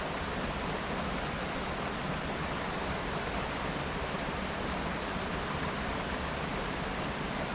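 Steady rushing of water from a small cascade in a stream, an even noise with no breaks.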